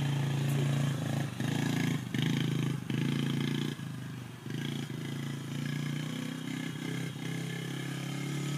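Dirt bike engine running under a rider, with the throttle chopped and reopened several times in the first four seconds or so, then running more steadily.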